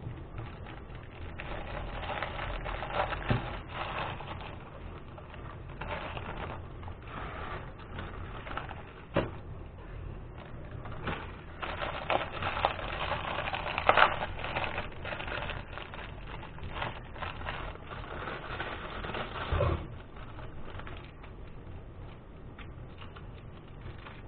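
Close-up eating and handling noises from a noodle mukbang: irregular clicks, crunches and rustling, with a few sharp knocks, the loudest about fourteen seconds in.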